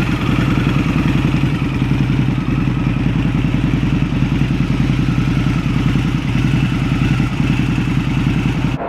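Harley-Davidson Night Rod's liquid-cooled V-twin idling steadily, with an even pulsing exhaust beat; it cuts off abruptly near the end.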